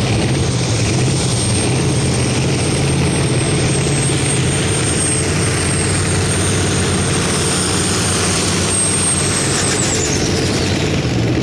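Pro stock pulling tractor's turbocharged diesel engine running hard under load down the track, with a steady high turbo whistle over the engine. The whistle falls in pitch near the end as the throttle comes off.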